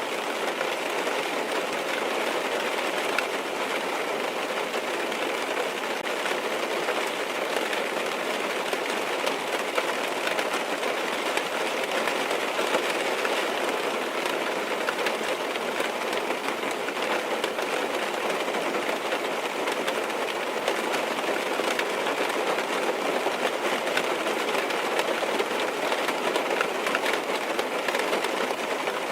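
Steady rain falling on a car, heard from inside: a dense, even patter of small taps on the roof and windows.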